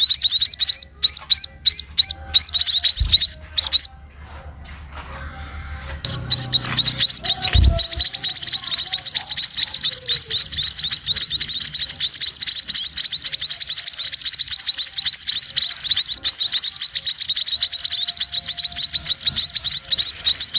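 Sparrow chicks begging for food, a rapid, continuous chorus of high-pitched cheeps. The calling stops about four seconds in and starts again two seconds later. Two dull low thumps come about three and eight seconds in.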